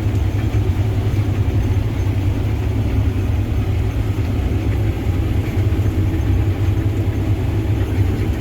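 Combine harvester running steadily while combining wheat: a continuous low engine drone with an even machinery hum, no changes in pace.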